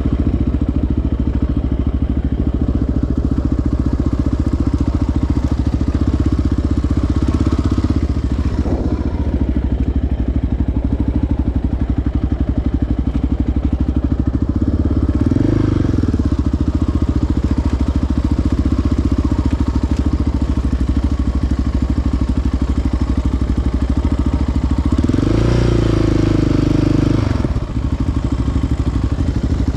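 Single-cylinder four-stroke ATV engine running at low trail speed, with the throttle opened and the pitch rising around halfway and again near the end, then dropping briefly as the throttle is let off.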